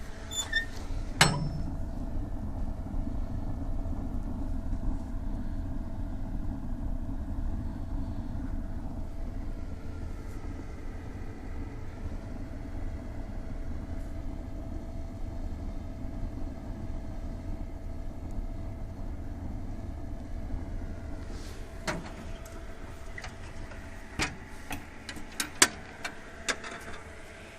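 Wood-gasification boiler burning on natural draft without its fan, giving a steady low rumble. There is a sharp click about a second in and a cluster of clicks and knocks near the end.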